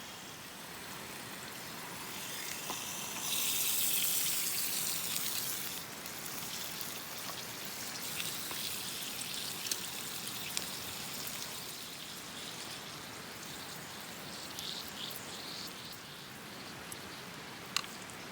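Steady rushing hiss of the gorge stream, with a louder hissing spell about three seconds in and a few sharp pops, typical of a wood campfire.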